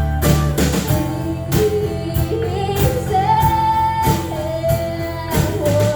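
Live acoustic band music: strummed guitar with a high voice singing a wordless line, holding long notes and sliding between them.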